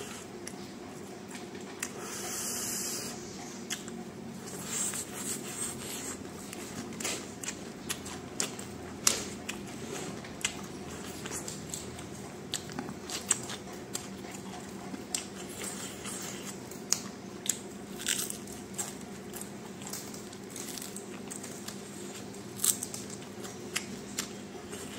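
Close-up chewing and biting of food: irregular crunches and wet mouth clicks, over a faint steady hum.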